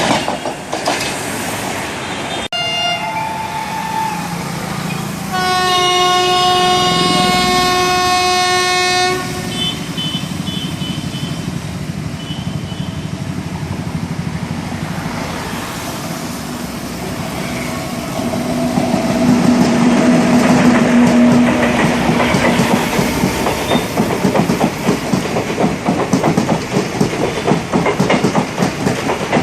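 Indian express trains passing: a locomotive horn sounds for about four seconds, and a lower horn sounds briefly later on. Near the end, steel wheels clatter quickly and evenly over the rail joints as a train runs by.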